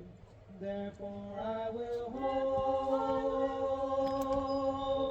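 A man singing or chanting slowly in long, steady held notes, stepping up through a few short notes before holding one note for about three seconds.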